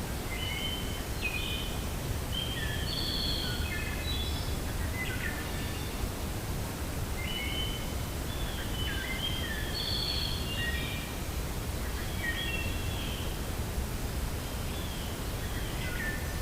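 Wind blowing with a steady low rumble, and several small birds chirping in quick runs of short high notes, twice in a long spell with a few more calls near the end.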